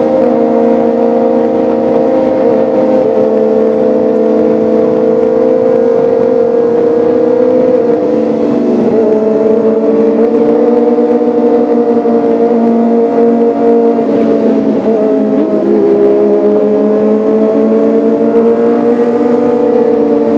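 Kawasaki ZX-25R's 249 cc inline-four engine running at a steady high pitch, dipping briefly twice before settling again.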